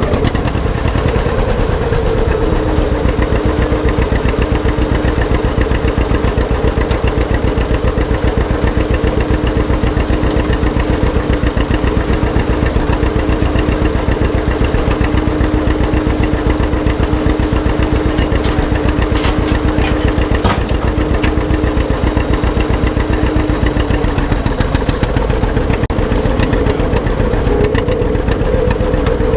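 Antique tractor engine running loudly at a steady speed, a rapid, even beat of firing strokes. Its pitch settles a little lower about two seconds in, holds, and rises again near the end.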